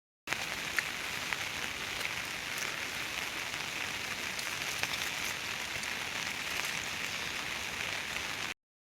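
Heavy rain falling on a surface: a steady hiss with scattered drop ticks.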